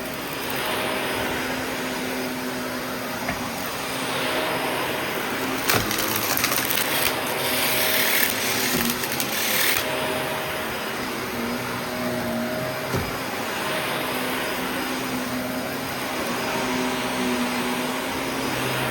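Shark vacuum cleaner running steadily. For a few seconds in the middle a louder crackling hiss rises over it, as debris from the small mess rattles up into the vacuum.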